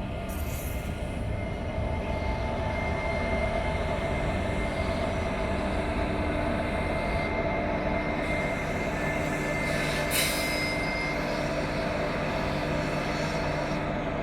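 A train running on the rails, a steady rumble with several steady whining tones through it, and a brief sharp noise about ten seconds in.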